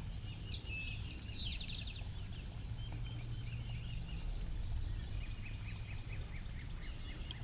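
Outdoor ambience of birds chirping, with a quick trill about a second and a half in, over a steady low background rumble.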